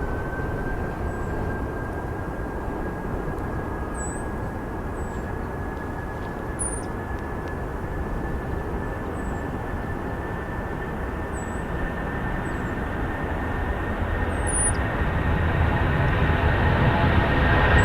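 Airliner engines running with a steady whine that slowly rises in pitch over a broad rumble, growing louder toward the end as the aircraft comes closer.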